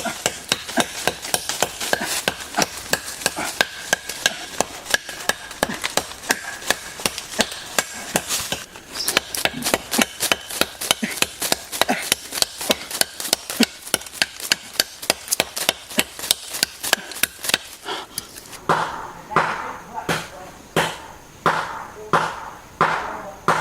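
Rapid repeated chopping strikes, about three a second, changing near the end to slower, fuller knocks about one and a half a second apart.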